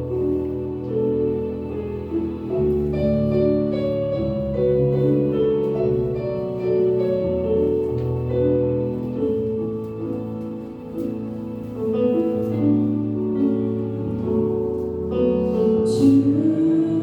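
Keyboard-led church worship music playing slow, held chords, with singing voices coming in near the end.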